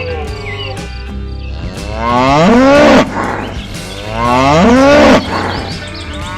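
Two loud mooing calls, each about a second long, rising in pitch and then cutting off sharply, over background music.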